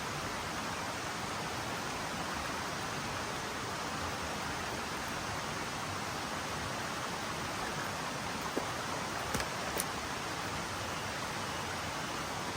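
Steady hiss of rain falling in a forest, with a few sharp ticks of drops or twigs late on.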